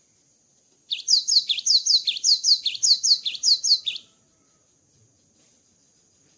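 Cinereous Tit (gelatik batu) singing a quick run of about six repeated two-note phrases, roughly two a second, each note a short high falling whistle. The song starts about a second in and stops about four seconds in.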